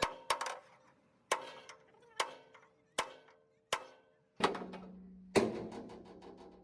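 Hammer blows on steel, about one a second and some of them ringing afterwards, typical of hand-working a steel truck chassis. A steady low hum joins about two-thirds of the way through.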